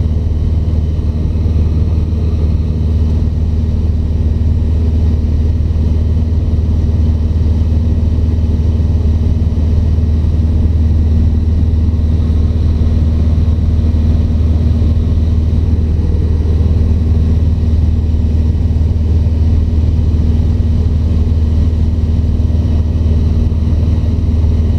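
Cessna 150's four-cylinder Continental O-200 engine and propeller droning steadily in level cruise flight, heard from inside the cockpit.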